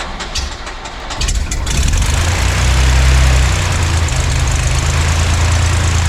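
Light airplane's piston engine being cranked by its starter with a rapid, even chugging, catching about a second and a half in and then running steadily at idle.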